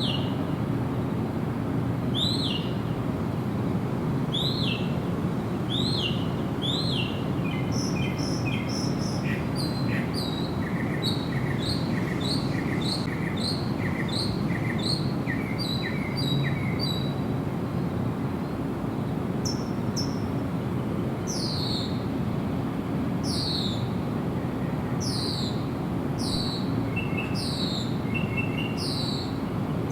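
Songbirds calling: a repeated downward-sliding call about once a second, then a quick run of short notes in the middle, then more downward-sliding calls, over a steady low background noise.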